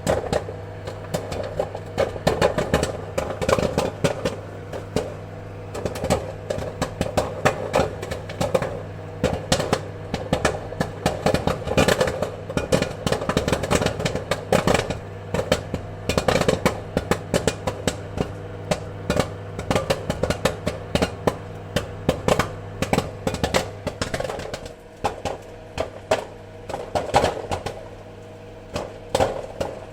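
Popcorn kernels popping in quick, irregular clusters of sharp pops, over a steady low hum.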